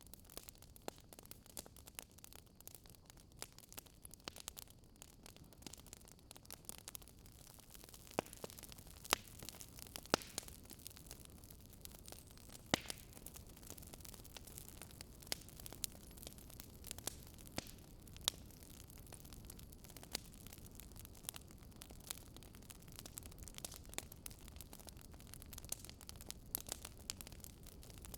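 Wood fire in a fireplace crackling: irregular sharp pops and snaps, a few louder than the rest, over a faint low hiss of the burning.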